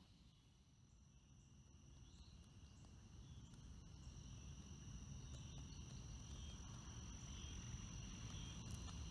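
Faint chorus of crickets: a steady high trill with a second, lower trill beneath it, over a low rumble that slowly grows louder.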